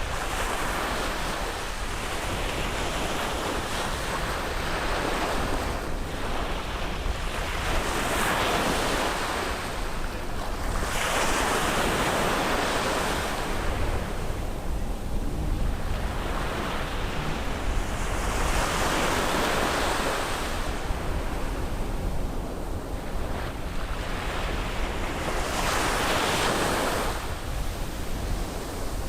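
Surf breaking on a beach: waves wash in one after another, a surge of rushing water every few seconds, over a steady low rumble.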